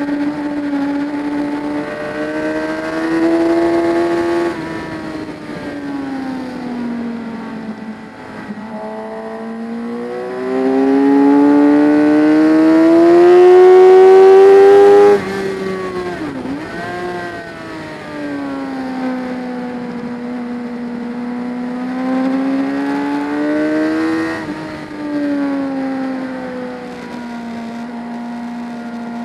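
Motorcycle engine at speed with wind rush, revving up and down through the gears. About ten seconds in it pulls hard to its loudest, then cuts off sharply at about fifteen seconds as the throttle is shut, dips quickly and pulls up again.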